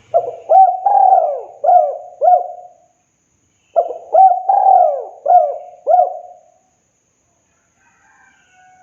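Spotted dove (tekukur) singing its cooing song: two phrases of about five quick coos each, every note dropping in pitch, separated by a pause of about a second.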